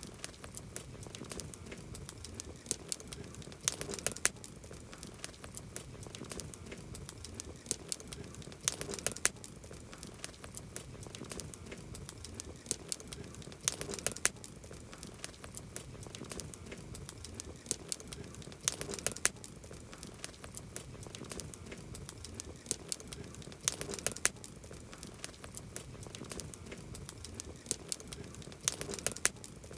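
Campfire wood burning, crackling and popping steadily, with a cluster of sharper pops about every five seconds.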